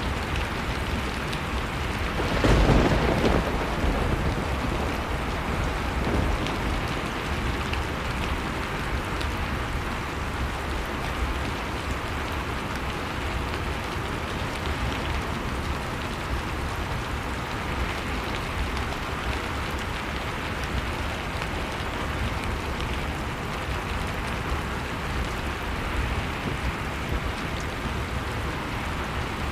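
Blizzard-and-fireplace ambience: a steady rush of storm wind, with faint scattered crackles from a wood fire. About two and a half seconds in, the noise swells louder for about a second.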